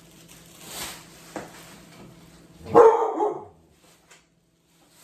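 A dog barking once, loudly, about three seconds in, with a softer sound shortly before.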